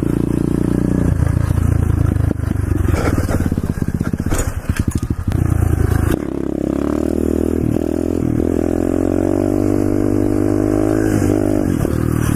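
Pit bike engine running while riding: its pitch rises and falls unevenly through the first half, then it pulls steadily with the pitch slowly climbing from about six seconds in.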